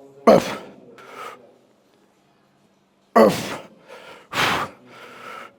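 A man's loud grunts of strain, three of them, each starting sharply and falling in pitch, with hard breaths between: the effort of pushing out the last reps of a dumbbell press set taken to failure.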